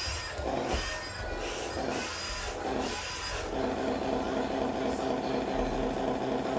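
Radio-controlled Scania model truck running with a steady humming drone, broken in the first three seconds or so by several rough scraping, rasping noises.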